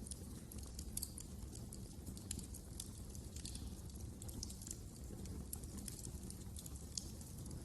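Wood fire crackling steadily: many small, irregular snaps and pops over a low, steady rumble of burning.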